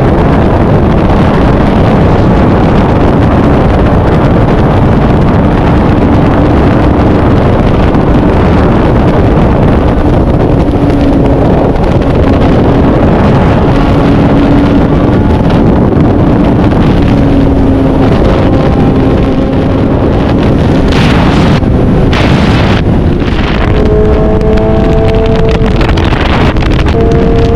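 Kawasaki Z900 inline-four motorcycle engine running at highway speed, heard onboard under heavy wind rush on the microphone. The engine note climbs higher in pitch about three quarters of the way through as the revs rise.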